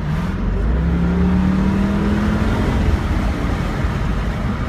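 2002 Ford Thunderbird's 3.9-litre V8 pulling under hard acceleration, its pitch rising steadily for about two and a half seconds before it eases off, over steady road noise.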